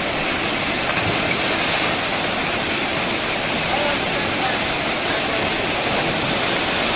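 Waterfall's falling water rushing steadily and evenly.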